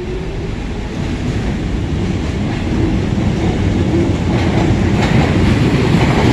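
Train running on the track, getting steadily louder.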